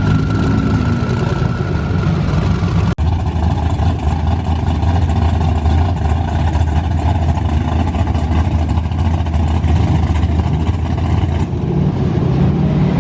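Car engine running steadily at low, even revs, with no clear revving. The sound cuts out for an instant about three seconds in.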